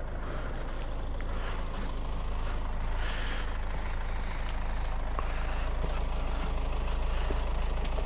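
A vehicle engine idling steadily with a low rumble, growing slightly louder over the few seconds.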